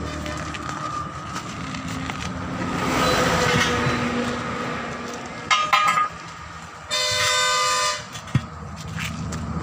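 Vehicle horns over steady traffic noise: a few quick toots about five and a half seconds in, then one horn blast lasting about a second.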